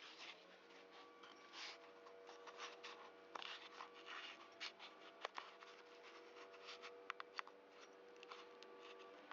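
Faint handling noises: light scraping and rustling with a few small sharp clicks, as the chainsaw's ignition coil is fitted and a gap card is slipped between it and the flywheel.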